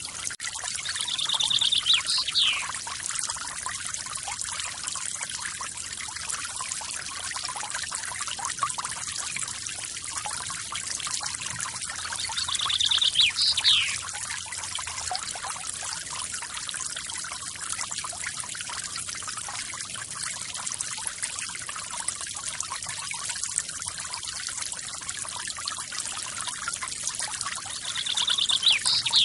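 A forest waterfall splashing steadily. A songbird sings a short, fast trill that ends in a downward slide, three times about 13 seconds apart.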